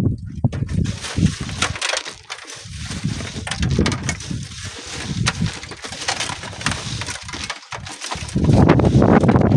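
Strong wind buffeting the microphone in uneven gusts, with many small clicks and crackles. About eight seconds in it turns into a steady, heavier blast.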